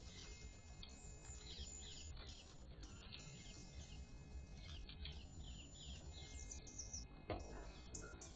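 Faint bird chirps over a low background rumble, with a single sharp click about seven seconds in.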